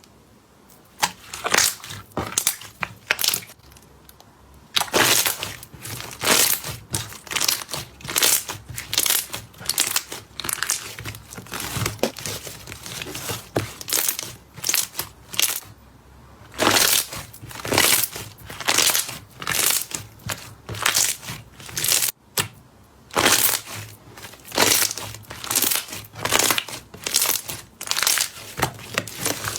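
Slime being pressed and squeezed, giving a run of short crackling, crunchy squishes about one or two a second, with a couple of brief pauses.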